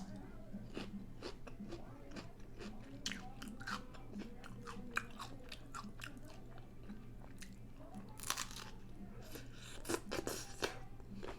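Close-up crunching and chewing of a hard taco shell: a string of small crisp crunches, with louder clusters of bites near the end.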